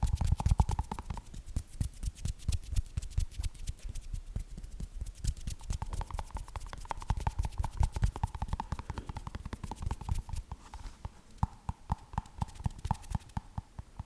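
Fast, irregular fingertip and fingernail tapping on a small glowing light-up object, close to the microphone, with a faint ringing tone that comes and goes. The tapping thins out near the end.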